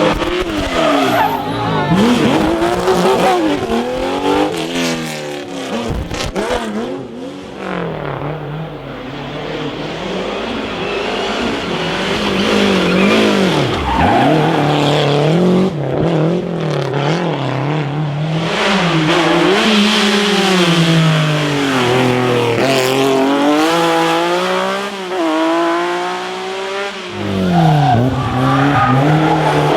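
Historic rally car engines at full racing load, revving up and falling back again and again through gear changes and corners, with sudden drops in pitch around a quarter of the way in, about halfway and near the end.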